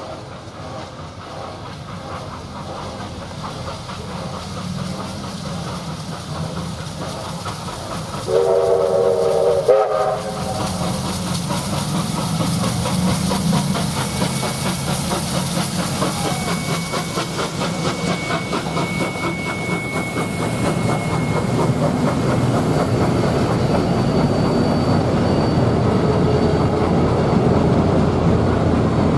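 A steam whistle sounds once, for about a second and a half, about eight seconds in. Then a triple-headed steam train runs past, its wheels clattering over the rail joints and growing steadily louder.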